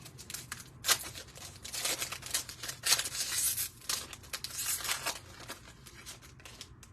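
A foil trading-card pack being torn open and crinkled, with cards rustling as they are handled, in a series of short rustling bursts.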